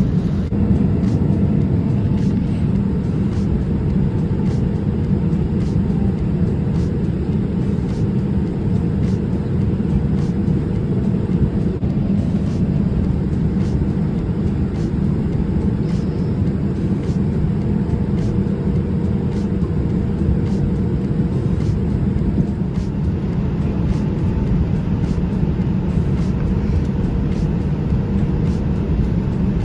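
Steady airliner cabin noise in flight: a constant low rumble of engines and airflow, with a faint steady hum above it.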